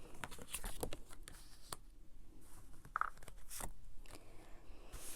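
Tarot cards being handled and laid out on a table: a scatter of light clicks and scrapes, with a brief squeak about three seconds in.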